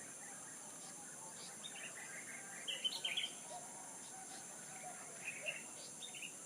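Small birds chirping and twittering in short, scattered calls, with a louder run of chirps about three seconds in, over a steady high hiss.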